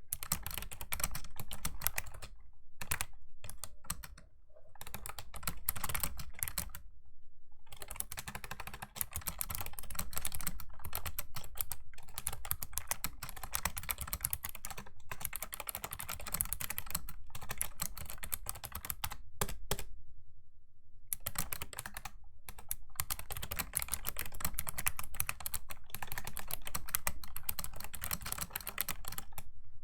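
Fast, steady typing on a Razer Ornata Chroma V2 keyboard with mecha-membrane keys, a dense run of clicky keystrokes. It breaks off in a few short pauses, the longest for about a second two-thirds of the way through.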